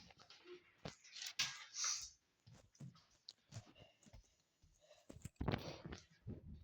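Faint scattered clicks, knocks and rustles of someone walking indoors and handling things, with a louder burst of rustling a little over five seconds in.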